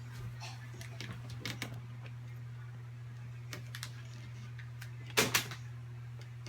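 Scattered light clicks and taps over a steady low hum, with a louder pair of clicks a little past five seconds in.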